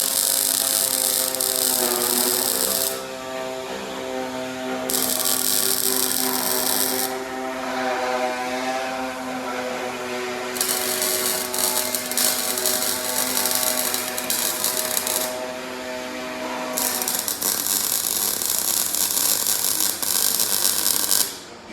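A power tool working steel tubing for a roll-cage bar: a motor hum runs steadily, dips in pitch briefly under load, and is joined by bursts of loud high-pitched grinding hiss that start and stop several times.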